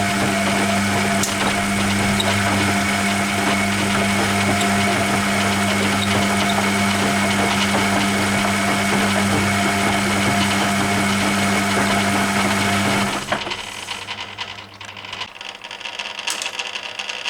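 Hoover Keymatic A3112 washing machine in its main wash: the drum motor runs with a steady low hum, then cuts off abruptly about thirteen seconds in. Quieter, irregular sounds of the wet load moving in the drum follow as the drum pauses.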